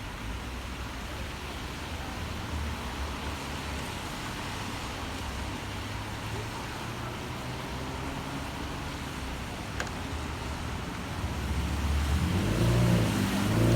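Wet city street traffic with a steady hiss of rain and low rumble of cars. Near the end a heavier vehicle's engine grows louder as it approaches.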